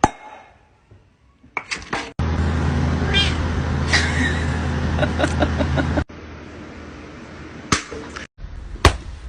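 A cat meowing in short calls, across several clips that cut abruptly. One clip carries a steady low hum, and a sharp click comes near the end.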